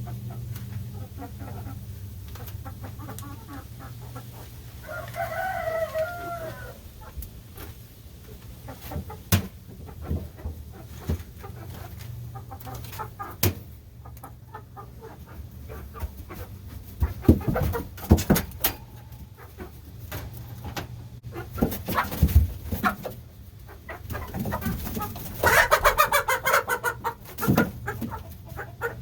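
Chickens calling, with two longer, louder calls, one about five seconds in and one near the end. Scattered sharp clicks and knocks run between them.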